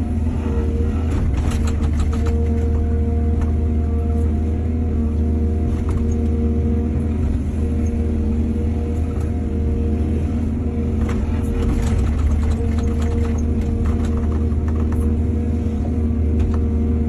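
Excavator's diesel engine running steadily with a low hum, and bursts of clattering about a second in and again about eleven seconds in.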